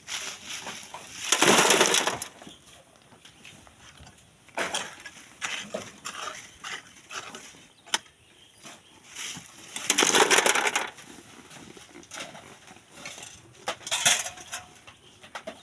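Loose sand and stones crunching and pouring in irregular bursts: three loud gritty rushes of about a second each, near the start, around the middle and near the end, with smaller scrapes and one sharp click between them.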